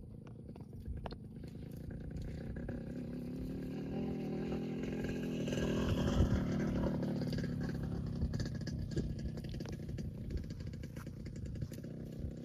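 A motor vehicle's engine passing by, swelling to its loudest about halfway through and then fading away.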